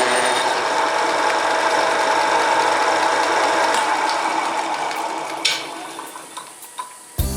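Homemade mini lathe with a 1 hp, 750 W single-phase motor running steadily, then winding down and fading from about four seconds in, with a sharp click and a few ticks as it slows. Music starts just before the end.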